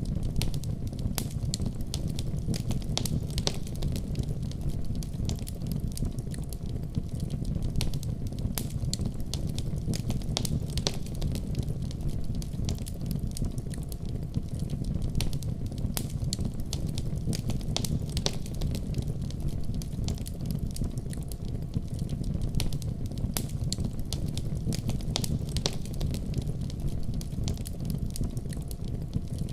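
Wood fire crackling in a fireplace: frequent, irregular sharp crackles and pops over a steady low rumble.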